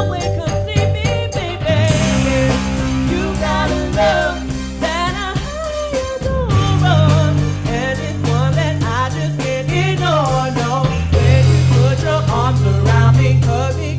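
A band playing a song with a singer: a lead vocal with vibrato over a bass line and a steady drum beat, the bass shifting to a new note about 2, 6 and 11 seconds in.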